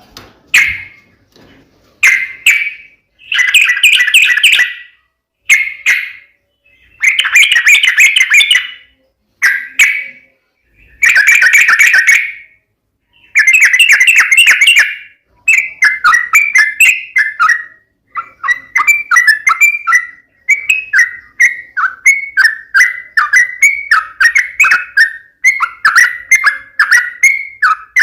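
Yellow-vented bulbul (trucukan) singing loud chattering phrases, first in separate bursts about a second long with short pauses, then from about halfway in a rapid, nearly unbroken run of short notes.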